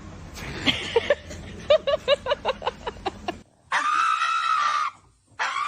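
A dog giving a quick run of short high yips, then a long, high, scream-like cry held steady and dropping slightly at the end, with another starting near the end.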